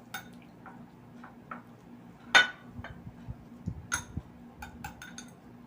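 Tableware clinking during a meal: scattered light clicks, one sharp clink about two and a half seconds in, then a few soft low thuds.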